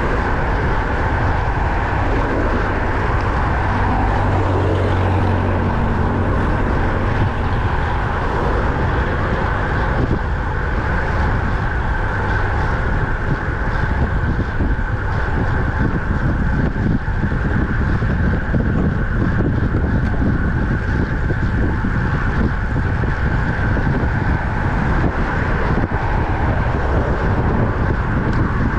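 Wind buffeting the microphone while riding a road bike at speed, over steady tyre and road noise. A low hum swells for a couple of seconds about four seconds in.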